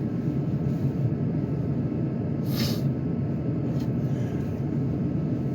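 Steady low rumble of a Ford Edge running to warm up in frigid cold, heard from inside the cabin. A brief rustle comes about two and a half seconds in.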